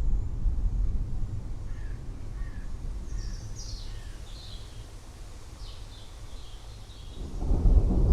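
Low thunder rumble dying away over the first few seconds, with birds calling in short chirps above it; near the end a fresh roll of thunder swells up.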